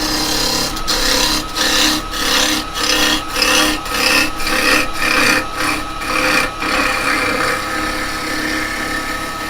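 Carbide chisel cutting a spinning cherry bowl blank on a wood lathe, in repeated scraping passes about one and a half a second, over the steady hum of the lathe; the passes ease into steady running near the end.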